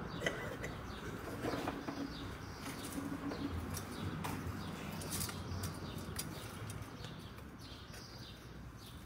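Birds chirping in short, scattered calls, over faint shuffling and a few soft knocks as people settle into their seats.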